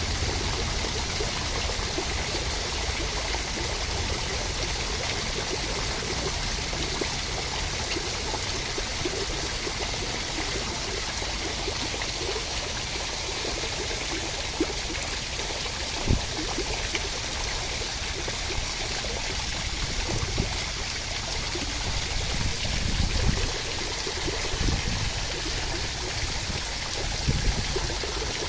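Steady rushing water: an even hiss of falling and splashing water, with a few brief low thumps in the middle and near the end.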